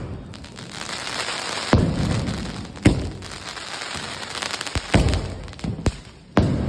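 A 24-shot multicolour fireworks cake firing, with a sharp bang roughly every second and a crackling hiss between the shots.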